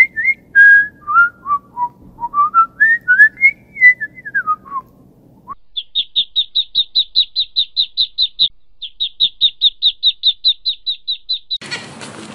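A run of gliding whistled notes that step down and then back up. Then goslings peep in a rapid, even series of high notes, about four a second, with one short break. A hissy noise comes in near the end.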